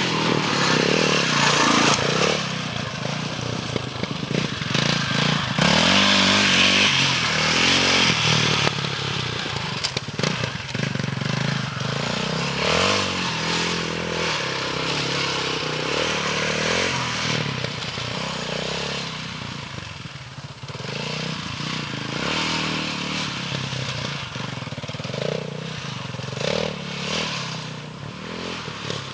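KTM 640 Adventure's single-cylinder four-stroke engine revving up and backing off over and over as the bike is ridden hard. It is loudest for the first several seconds, then a little quieter.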